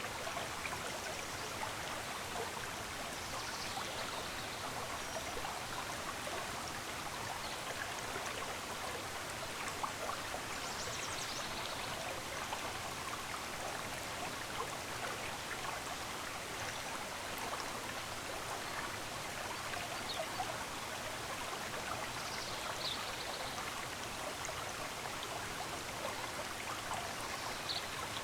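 Steady rush and babble of a stream's running water, with a few faint, short bird chirps high above it now and then.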